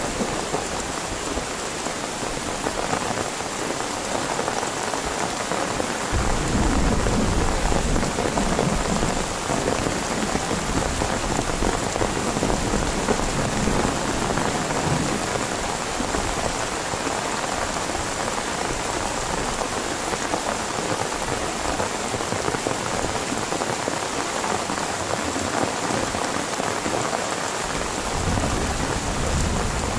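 Heavy rain falling steadily. About six seconds in, a low rumble of thunder swells suddenly and fades away over the next ten seconds or so, and another low rumble begins near the end.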